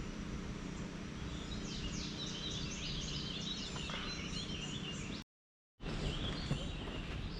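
Outdoor ambience by a lake: a songbird sings in quick chirping phrases over a steady low rumble. About two-thirds through, all sound cuts out completely for about half a second, then the birdsong and rumble resume.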